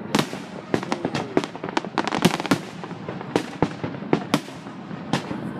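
Aerial firework shells bursting overhead, many sharp bangs and cracks in quick, uneven succession.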